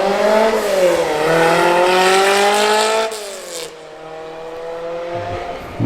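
Car engine accelerating: its pitch climbs, dips briefly under a second in as it changes gear, climbs again, then drops about three seconds in and runs steadier and lower as the driver eases off.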